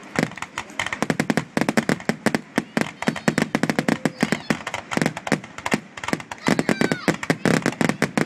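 Fireworks grand finale: a rapid, unbroken barrage of aerial shell bangs and crackles, many each second.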